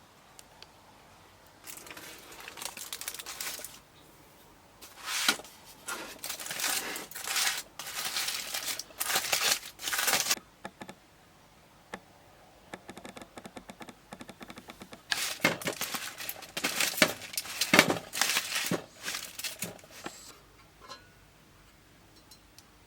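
Rustling and crinkling in irregular bursts, with a run of faint quick ticks in the middle.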